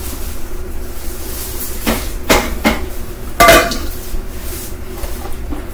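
Kitchenware clattering: about four sharp knocks of dishes or pans handled on a counter, between roughly two and three and a half seconds in, over a steady low hum.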